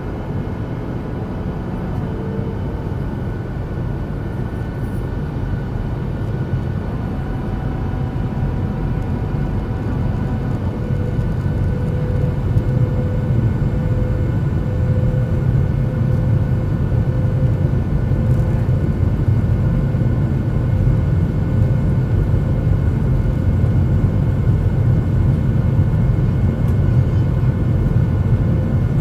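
Airliner cabin noise: the aircraft's engines and airflow make a steady low rumble with a constant whine. It grows somewhat louder about ten seconds in.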